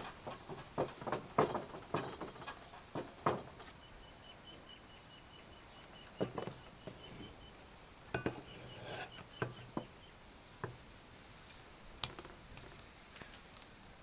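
Light knocks and taps of food-preparation handling, many in quick succession for the first three seconds and then scattered, over a steady high insect hiss.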